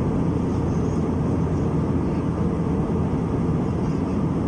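Steady cabin noise of an Airbus A321-200 in flight: the low, even rumble of the engines and airflow heard from inside the passenger cabin.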